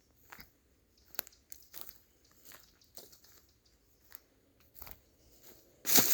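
Footsteps crunching on dry leaves and twigs of a forest floor: a string of short, irregular crackles, with a louder, longer crunch near the end.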